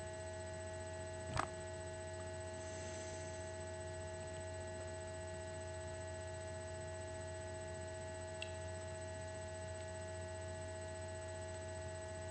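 Steady electrical-sounding hum with a few constant higher tones over it, and a single faint click about a second and a half in.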